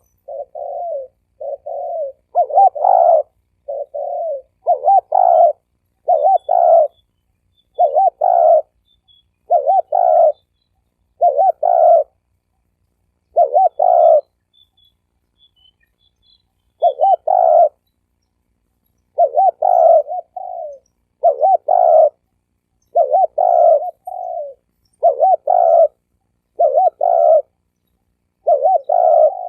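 Spotted dove cooing: short low coo phrases repeated over and over, roughly one every second or so, with a pause of a few seconds about halfway through. A decoy dove's cooing of the kind played to lure wild spotted doves.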